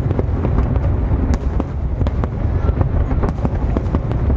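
Aerial fireworks display: a steady low rumble of shell bursts, with many sharp cracks and pops, several a second.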